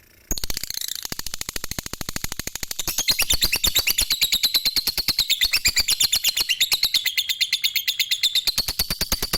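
Lovebird in a long, unbroken 'ngekek' chatter: a very fast, even stream of sharp, high chirps, starting about a third of a second in after a brief pause.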